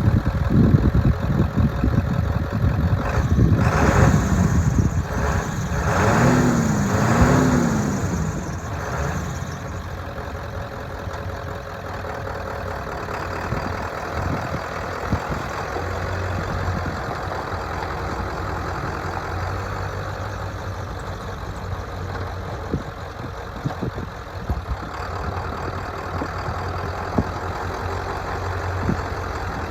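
Ford 7.3L V8 turbo-diesel engine running just after starting: revved up and down a few times in the first eight seconds or so, then idling steadily.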